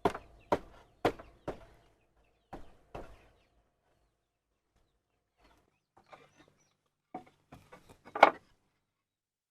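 A hand tool striking wood in quick blows, about two a second, each with a short ring. The blows stop about a second and a half in, two more follow, and later come a few softer knocks and one loud knock near the end.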